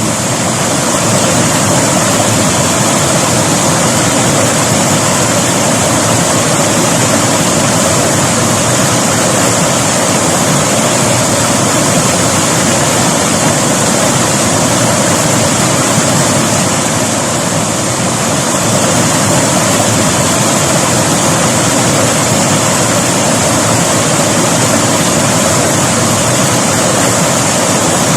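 River water rushing, a loud steady flow with no breaks.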